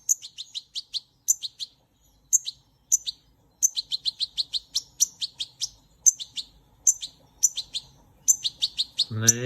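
Small bird chirping: quick runs of short, high chirps with brief gaps between runs.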